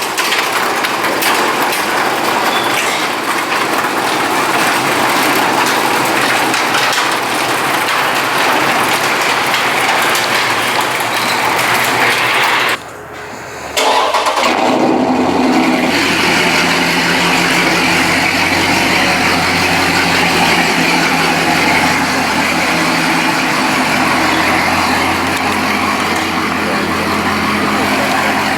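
A steady loud rushing noise, then a short drop about 13 seconds in. About 14 seconds in, a vehicle engine starts and settles into a steady idle.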